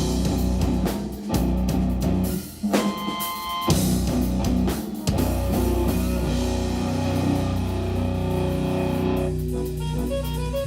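A live jazz-rock trio of electric guitar, bass and drum kit playing, with two short stop-start breaks in the first few seconds; about nine seconds in, a quick climbing run of high single notes begins over the band.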